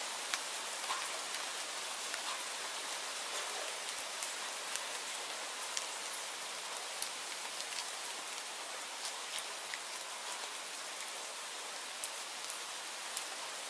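Steady rain hissing, with many separate drops ticking sharply at irregular moments.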